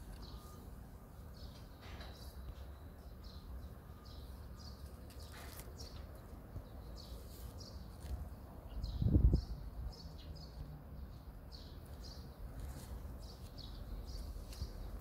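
Small birds chirping, with short high notes repeated throughout, over a steady low outdoor rumble. A brief loud low rumble hits the microphone about nine seconds in.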